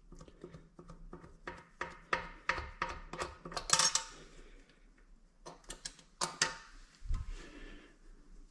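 Small metal hardware clinking and tapping: washers and nuts being handled and fitted onto the toilet's bolts, a run of light irregular clicks with a dull low bump about seven seconds in.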